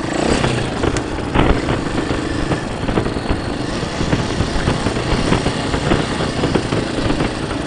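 Dirt bike engine running steadily while riding the motocross track, with a sharp knock about a second and a half in.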